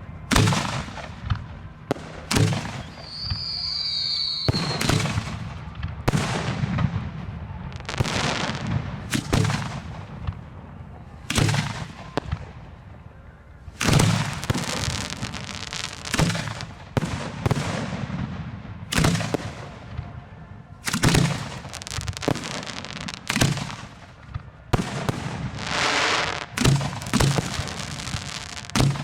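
Fireworks display heard from close by: shells bang in quick succession, roughly one a second, each followed by a crackling tail. A brief whistle comes about three seconds in, and a longer crackle near the end.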